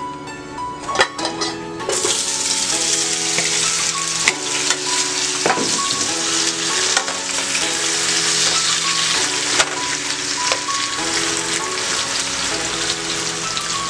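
Sweet potato strips sizzling in hot oil in a frying pan. The sizzle starts about two seconds in as they go into the oil and then holds steady, with a few clicks of utensils against the pan as the strips are turned.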